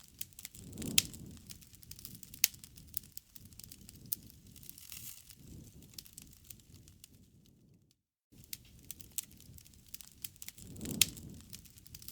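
Wood campfire crackling, with frequent sharp pops and snaps over a low rush of flame that swells about a second in and again near the end. The sound cuts out completely for a moment about eight seconds in.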